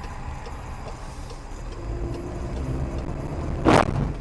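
A motor vehicle's steady low road and engine rumble, with one sudden loud bang about three and a half seconds in.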